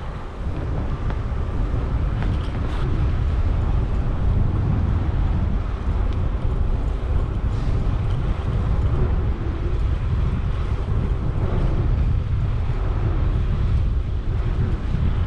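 Wind buffeting the microphone of a camera on a moving bicycle, a steady low rumble, with road and traffic noise under it and a few faint clicks.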